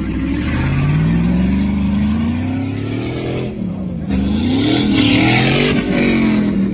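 A motor vehicle's engine accelerating. It climbs steadily in pitch for about three seconds, dips suddenly, then revs up and down again.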